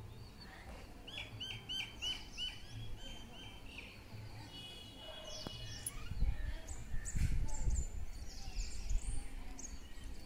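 Several small birds calling and chirping: a quick run of about eight repeated notes a second in, then scattered high, falling chirps. A low rumble on the microphone comes up in the second half.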